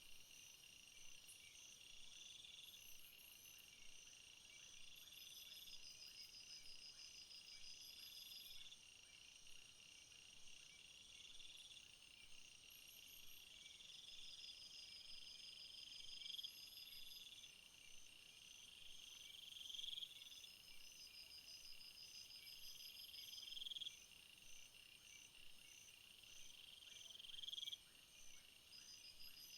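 Faint insect chorus of a summer field: crickets trilling steadily, with a buzzing phrase that swells and cuts off sharply about every four seconds, and fast high chirping over it.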